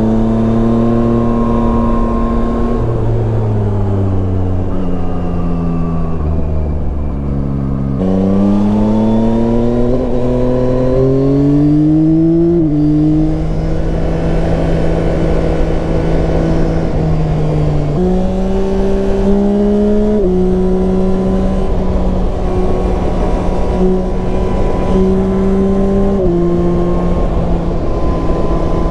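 Yamaha Tracer 9's inline-three engine under way: it runs steady, its speed falls for a few seconds, then revs climb through a gear from about a third of the way in and drop sharply at a gear change. After that it holds a steady speed with small rises and dips of the throttle, over a continuous rushing noise.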